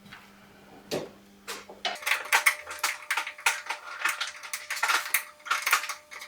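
A single knock about a second in. From about two seconds in, rapid irregular clicking and rattling of a hand tool as self-tapping screws are backed out of a plastic engine splash shield.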